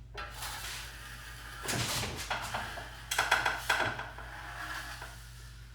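Metal drywall knife scraping joint compound, a run of noisy strokes with a few sharper knocks in the middle.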